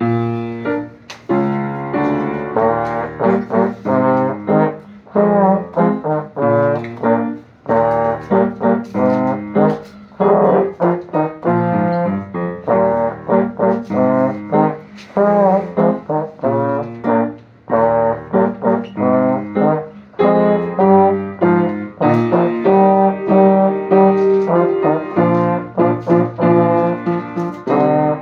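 Solo trombone playing a lively melody of mostly short, separated notes, with piano accompaniment.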